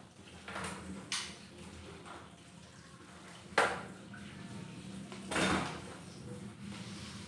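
Four separate sharp clinks and knocks of dishware, the last one longer, over a steady low hum.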